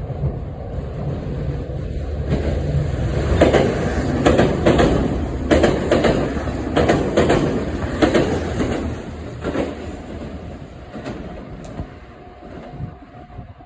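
A train passing, its wheels clacking over rail joints in quick pairs over a steady rumble, loudest in the middle and fading away near the end.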